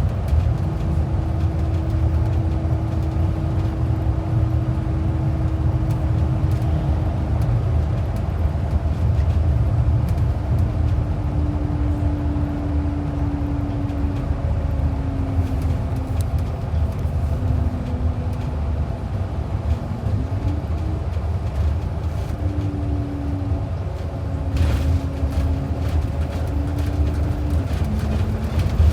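Express bus under way: a steady low engine and road rumble, with a whine that slowly falls in pitch, dips and rises again a little past two-thirds of the way through, then drops once more near the end.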